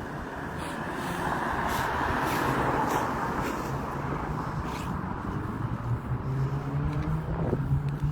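A motor vehicle going by: a rush of road noise swells over the first few seconds, then a steady low engine hum grows louder through the second half.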